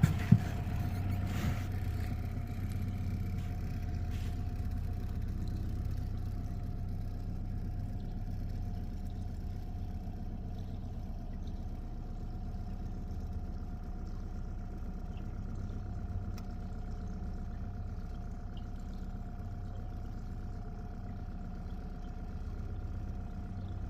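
Small boat outboard motor running steadily at low, putting speed.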